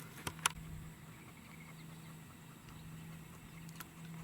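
Faint open-field ambience with a steady low hum, broken by two sharp clicks about half a second in.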